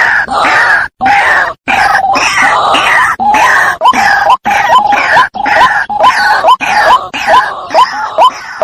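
White-breasted waterhen calling: rough, grunting croaks at first, giving way after about three seconds to a fast run of short rising notes, about three a second, broken by sudden short breaks.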